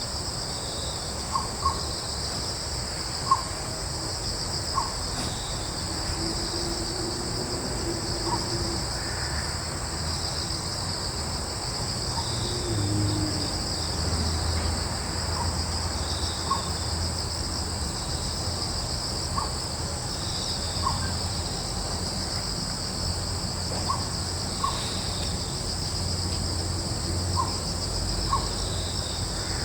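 Crickets and other insects chirring steadily in two high-pitched layers, with brief, sharp calls scattered every second or two and a low rumble underneath.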